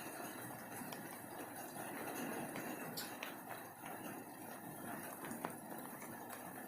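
Steady rain falling, with scattered drops ticking irregularly.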